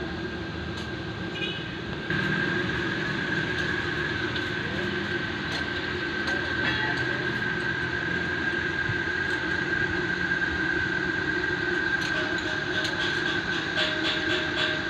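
A machine running steadily, a continuous hum with a high whine over it, getting louder about two seconds in.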